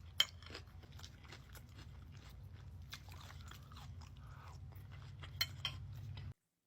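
Close-miked chewing and crunching of food, many short crisp crunches over a steady low hum. It cuts off abruptly near the end.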